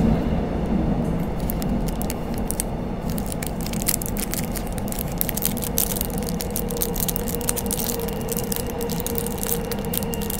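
Inside a Seohae Line commuter train carriage: the steady rumble of the train running between stations, with a steady whine that grows clearer in the second half. Irregular light crackling from plastic zip bags runs over it.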